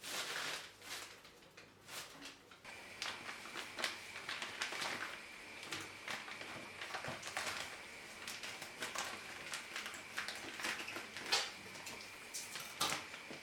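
Light clicks and knocks of objects being handled, scattered irregularly, with a faint steady high-pitched tone from about three seconds in.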